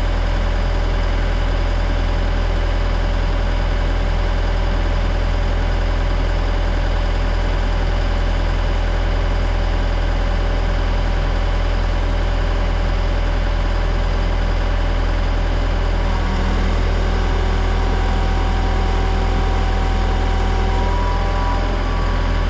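Engine of a truss-lifting machine running steadily at a low, even hum. About three quarters of the way through, a higher steady tone joins it.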